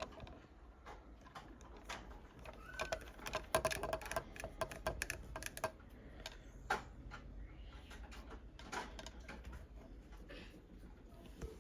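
Small hand-tool clicking and tapping: an eyeglass repair kit's precision screwdriver and tweezers working on a pair of sunglasses. There is a dense run of quick little clicks a few seconds in, one sharper click just after, then scattered ticks.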